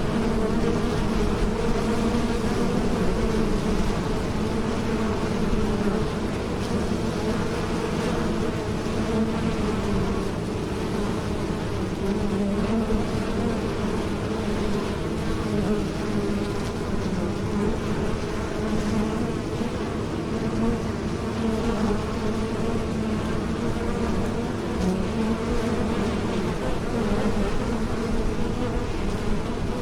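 Bees buzzing in flight: a steady, continuous hum whose pitch wavers slightly.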